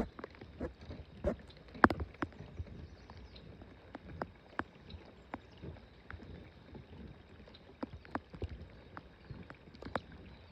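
Irregular light taps and knocks around a small fishing boat, with a sharper knock at the very start and another about two seconds in.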